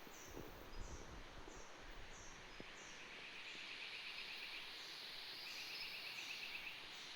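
Tropical rainforest ambience: a steady insect hiss with a short high chirp repeating about every two-thirds of a second. Two rapid buzzy trills come near the middle, and a few faint low knocks come in the first second.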